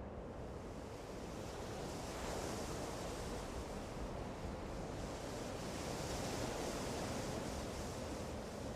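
Steady rushing noise with no distinct birdsong, swelling slightly about two seconds in.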